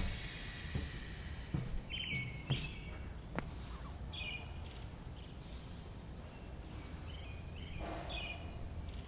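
Small birds giving short, repeated chirps over a steady low background rumble, with a few sharp knocks in the first few seconds.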